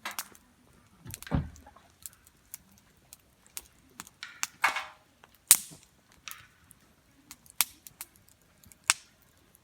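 Wood campfire crackling, with irregular sharp pops and snaps. The loudest pop comes about five and a half seconds in.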